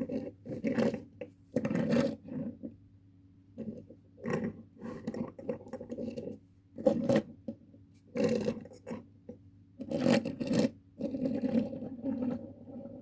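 Handling noise from a small die-cast toy tractor being picked up, turned over and rubbed against a surface: irregular scrapes and light knocks.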